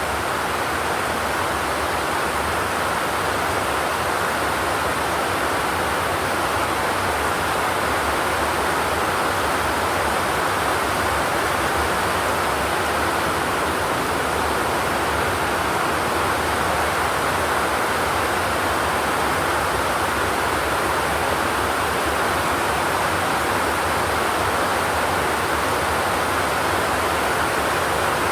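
Rain falling on a zinc roof: a steady, even hiss with no thunder.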